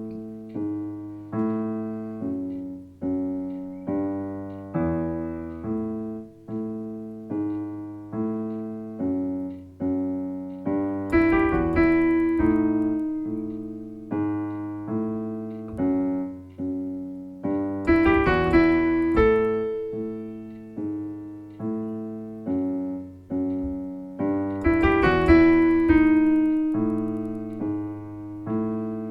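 Solo piano music: slow, evenly paced notes and chords, with louder, brighter phrases in the upper register about every seven seconds.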